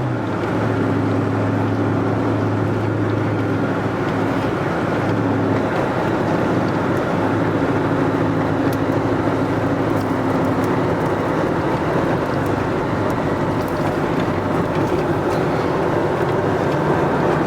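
Car driving steadily: a constant engine drone under road and wind noise.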